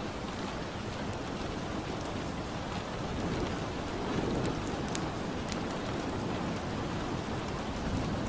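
Steady rain ambience with scattered sharp crackles of a fireplace mixed in, and a low rumble that swells about four seconds in.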